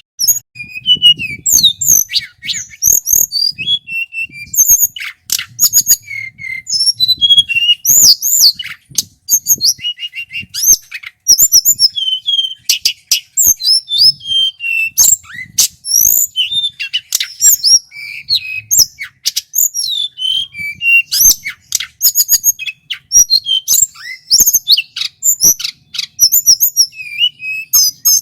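Male tledekan gunung singing loudly and without pause: a rapid string of high chirps, gliding whistled notes and sharp clicking notes.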